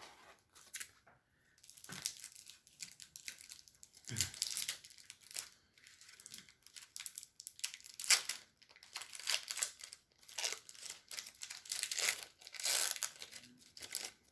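A trading-card pack wrapper being torn open and crinkled in the hands, in a run of irregular crackling bursts.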